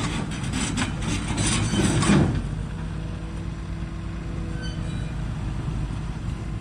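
A heavy vehicle's engine running, with loose metal clattering and knocking for about the first two seconds, then settling to a steady idle.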